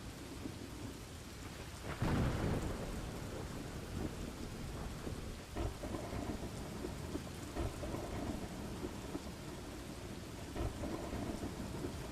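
Steady rain falling, with thunder rumbling. A louder clap of thunder comes about two seconds in, and lighter rumbles follow later.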